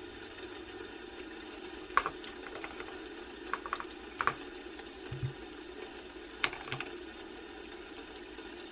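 Sparse, irregular keystrokes on a computer keyboard, a few single clicks and short clusters, over a steady low background hum, with a soft thump about five seconds in.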